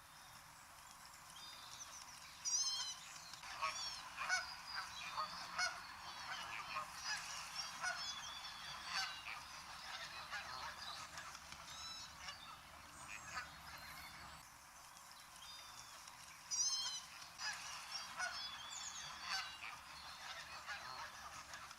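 A flock of geese honking, with many calls overlapping and louder bursts about two and a half seconds in and again about sixteen seconds in.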